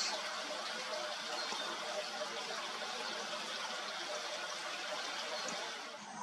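Steady rushing noise, with a few faint, short high chirps over it.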